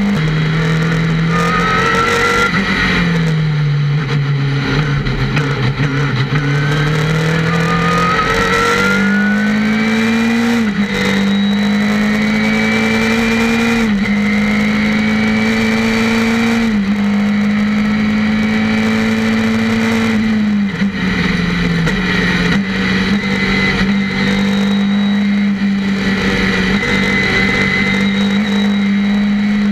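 Nissan 350Z race car's V6 engine running hard, heard from inside the stripped cockpit. The pitch drops near the start, stays low for several seconds, climbs back about nine seconds in, then holds high with a few brief dips.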